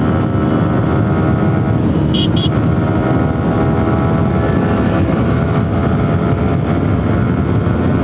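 Motorcycle engine running steadily at cruising speed, with road and wind noise. About two seconds in come two short high beeps.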